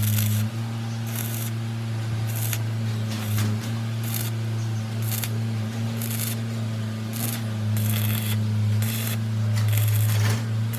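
Repeated short scraping or rubbing strokes, roughly one a second, over a steady low hum.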